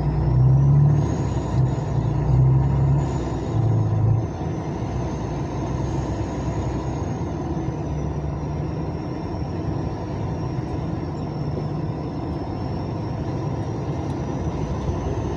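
Vehicle engine running, heard from inside the cab as a low rumble that swells unevenly over the first four seconds and then settles to a steady level, with a faint high whine above it.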